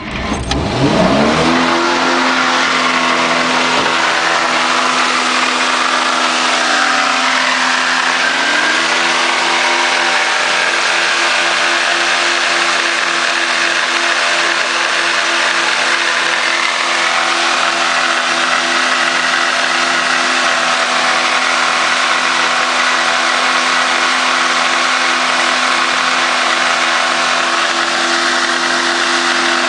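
1965 Ford Falcon engine starting and revving straight up, then held at a steady high rpm with the throttle pinned wide open by a brick on the gas pedal, running with no coolant. The revs sag briefly about seven seconds in and then recover.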